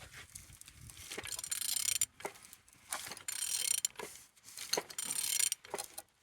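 A used engine being turned over by hand, in repeated strokes: three longer rasping, ratchety bursts with sharp clicks between them. It turns freely, a sign the engine is not seized.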